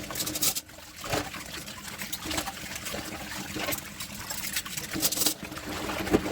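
Tap water running and trickling over dishes in a kitchen sink, with a few sharp clinks and knocks of dishware scattered through it.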